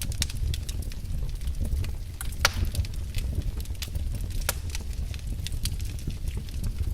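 Firewood burning in a fireplace, crackling with scattered sharp pops over a low steady rumble; the loudest pop comes about two and a half seconds in.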